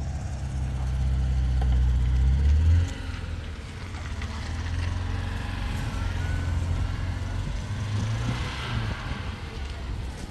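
Car engine running with a loud, low hum that builds over the first three seconds, drops suddenly, then carries on steadily.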